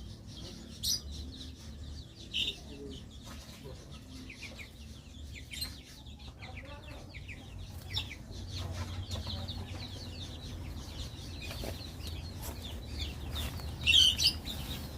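A small cage bird chirping in short high calls, the loudest about a second in, at about two and a half seconds and a cluster near the end, over a low steady hum.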